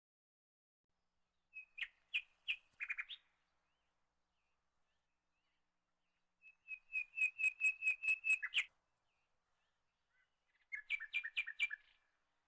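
A small songbird singing: three phrases of quick, repeated chirps. There is a short phrase about two seconds in, a longer run of about a dozen chirps in the middle, and a short phrase near the end.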